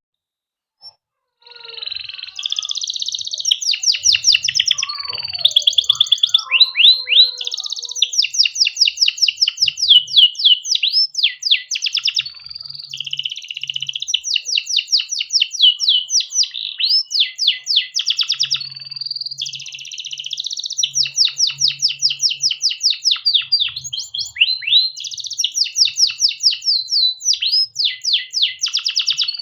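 Male domestic canary singing a long, continuous song of fast rolling trills and repeated high notes, starting about a second and a half in and running with only brief breaks.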